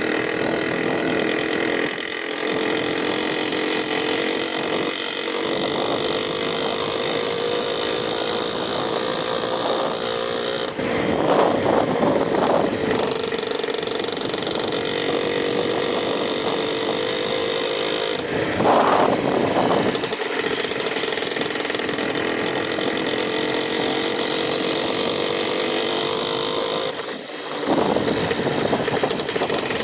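Small petrol engine running steadily, with three short surges of throttle: about a third of the way in, a little past halfway, and near the end.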